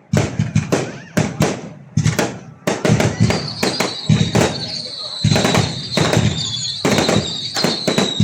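Fireworks going off in a rapid, irregular string of sharp bangs. From about three seconds in, a high steady whistle sounds over them and carries on.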